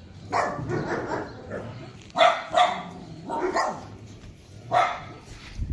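Dogs barking: a string of short, sharp barks, roughly one every second.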